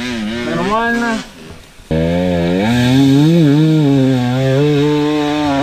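Single-cylinder 174 engine of a ZUUM motorcycle revving. A short blip is followed by a brief drop, then from about two seconds in the engine holds high revs under load, its pitch wavering.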